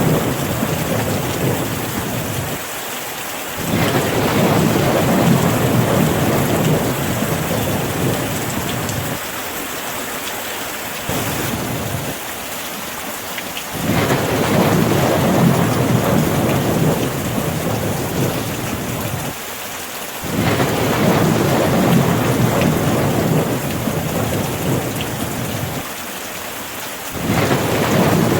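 Steady rain falling, with low rolling thunder that swells up and dies away several times.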